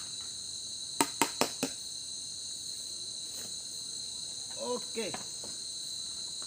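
Steady chorus of night insects, several shrill high tones held without a break. About a second in come four sharp clicks in quick succession.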